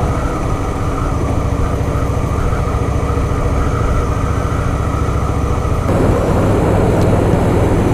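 Harley-Davidson Softail Fat Boy V-twin running steadily while the motorcycle cruises. About six seconds in, a louder rushing noise takes over.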